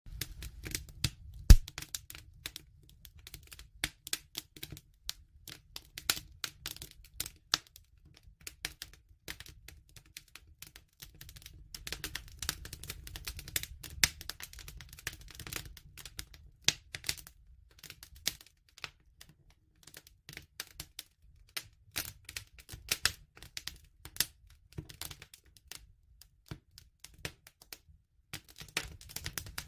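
Wood fire crackling, with many irregular sharp snaps and pops over a low rumble. One louder pop comes about a second and a half in.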